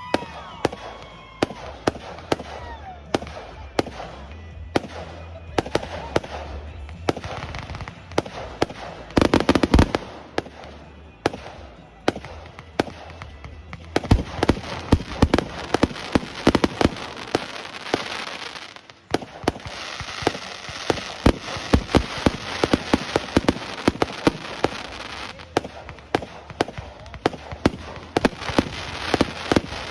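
Aerial fireworks display: a rapid string of bangs from bursting shells, with a loud dense cluster about ten seconds in and sustained crackling through much of the second half.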